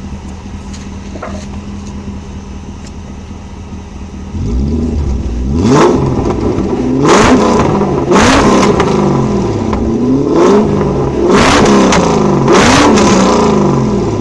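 BMW 740 engine through an exhaust with a welded H-pipe, a resonator and no rear mufflers. It idles steadily, then from about four seconds in it is revved again and again in quick blips, the pitch rising and falling each time.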